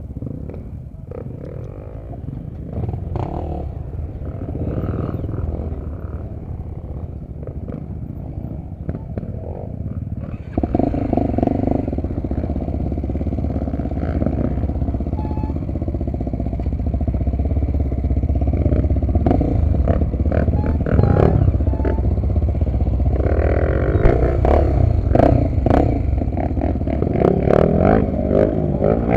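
Honda XR250 Tornado's single-cylinder four-stroke engine running while riding a dirt trail, louder from about ten seconds in, with frequent clattering knocks over the rough ground.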